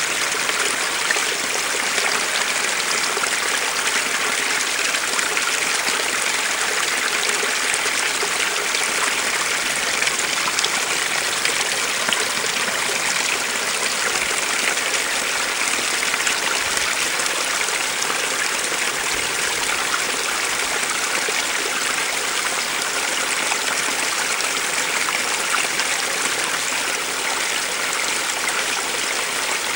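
A small stream flowing steadily, an even, unbroken rush of running water.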